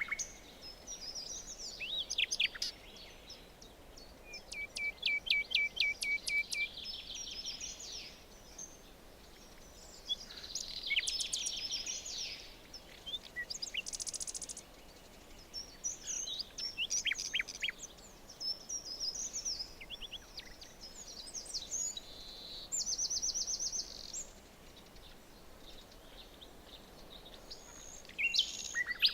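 Several songbirds singing in a forest: bursts of trills, rapid repeated notes and quick whistled sweeps every few seconds, with short pauses between phrases, over a faint steady background hiss.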